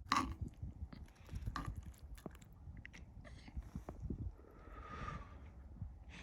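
A person chewing a mouthful of shrimp and squid paella close to the microphone, with irregular soft chewing sounds and small clicks.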